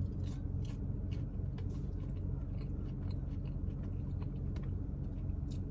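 A person chewing a mouthful of ube hand pie with a warm, crispy fried crust: soft, irregular crunches and wet mouth clicks over a steady low hum.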